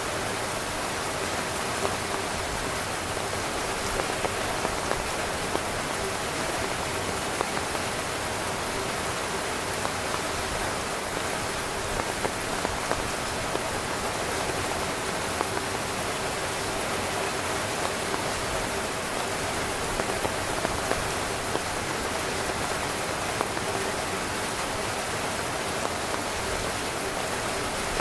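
Heavy rain pouring steadily onto tent fabric, a dense even hiss with scattered louder individual drop hits.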